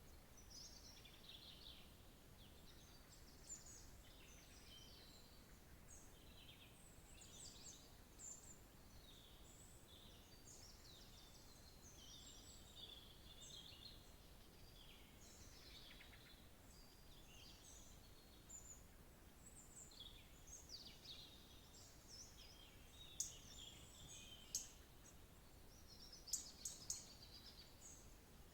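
Faint chorus of songbirds: several birds chirping and singing in short, overlapping phrases throughout, with a few sharper, louder chirps near the end.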